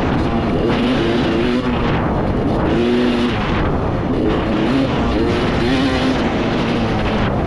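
Yamaha YZ250 two-stroke motocross engine under load on the track, its pitch rising and falling again and again as the throttle is worked through the course.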